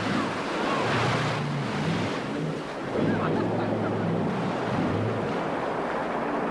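Jet boat running on a river: the engine's note rising and falling under rushing water spray, with wind buffeting the microphone.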